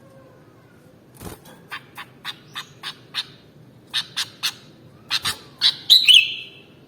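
Sooty-headed bulbul (kutilang) calling: a run of about fifteen short, sharp notes starting about a second in, ending in a louder, longer call.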